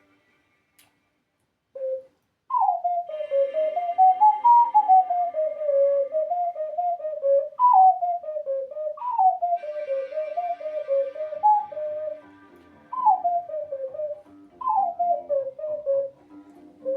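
Ocarina playing a melody by ear in repeated phrases that fall from a high note, with a pure, whistle-like tone, over a faint backing music track. The ocarina comes in about two seconds in, after a brief near-silent gap.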